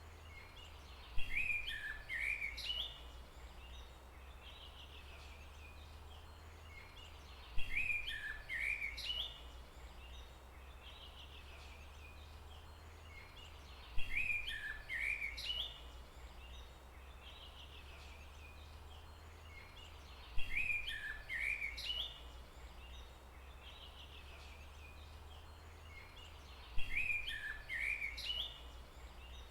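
A bird's short chirping song phrase, starting abruptly and lasting about a second and a half, repeated identically about every six seconds, five times in all, over a steady low hum.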